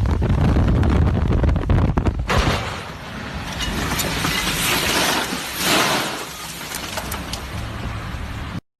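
Vehicle noise: a heavy low rumble for about two seconds, then a loud rushing noise that swells twice before cutting off near the end.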